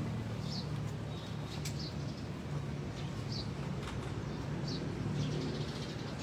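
Quiet background: a low steady hum with faint, short bird chirps every second or so.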